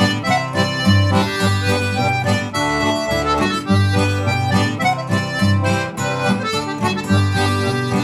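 Instrumental break of a folk song: a melodeon plays the tune over a strummed acoustic guitar and a steady bass line.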